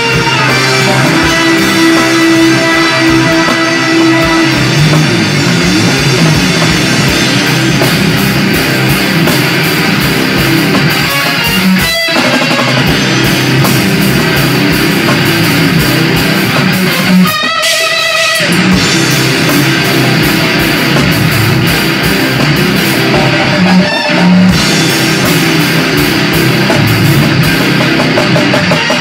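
Guitar and drum kit jamming loud heavy rock, with brief breaks about twelve and eighteen seconds in.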